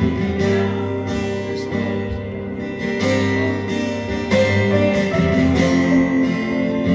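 Instrumental music of strummed acoustic guitar chords played slowly, sustaining and changing chords every few seconds.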